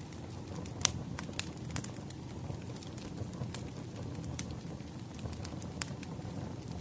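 Wood fire crackling: a steady low rumble of burning logs with scattered sharp pops, the loudest about a second in.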